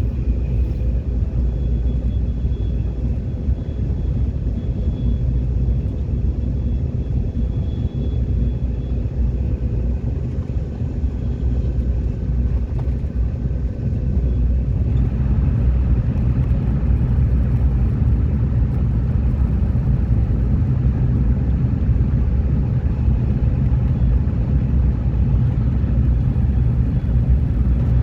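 Train running, a steady low rumble that gets louder about halfway through.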